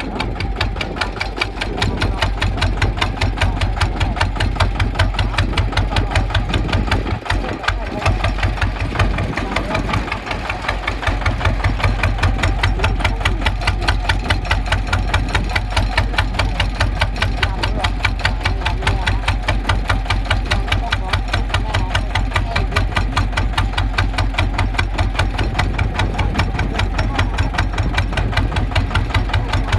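Kubota ZT155 tractor's single-cylinder diesel engine running steadily, its firing strokes a fast, even thudding, with a brief dip about seven seconds in.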